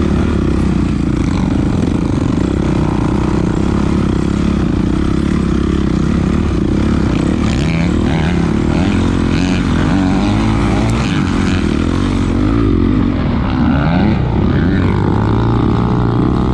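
450 cc four-stroke dirt bike engine running under throttle, the revs climbing and dropping several times in the second half.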